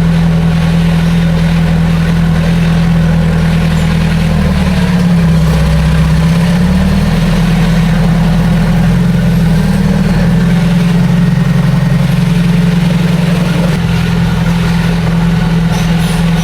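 Heavy diesel engine of earthmoving equipment running steadily. Its pitch sags about five seconds in and comes back up, then wavers again a few seconds later.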